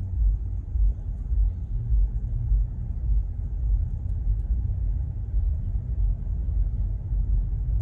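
Low, steady road rumble inside a moving car's cabin.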